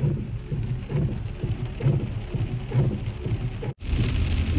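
Heavy rain heard from inside a car: drops drumming on the roof and windows with irregular low thumps. About three-quarters of the way through the sound cuts out for an instant and comes back as a steadier, hissier rain.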